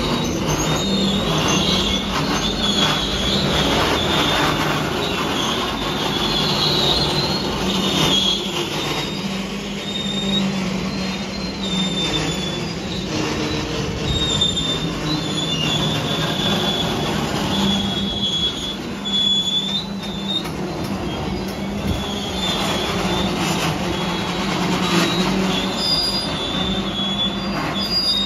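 A train rolling past at close range with a steady rumble and a low hum, its wheels squealing against the rails in high-pitched squeals that come and go.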